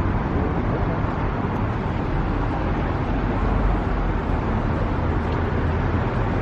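Steady road traffic noise, a low rumble under an even hiss.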